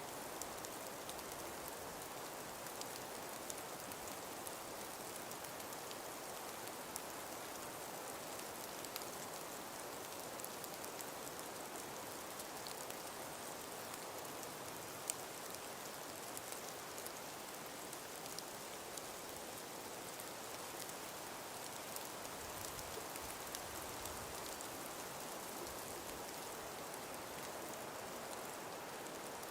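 Calm breeze through a frost-covered winter forest: a steady, even hiss with many faint, scattered ticks and patters throughout.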